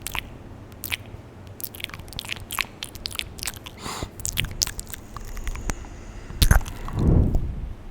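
Close-miked ASMR mouth sounds: irregular wet clicks and smacks of lips and tongue, with a short breathy hiss just before the middle. A louder low thump comes about six and a half seconds in, followed by a brief low rumble.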